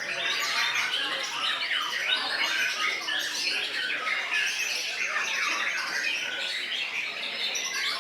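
Many caged songbirds singing at once: a dense, unbroken chorus of overlapping chirps, trills and whistles with no gap.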